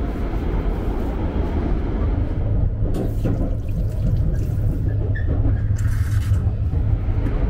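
Shinkansen high-speed train running: a steady low rumble, with brief hissing swells about three seconds in and again around six seconds in.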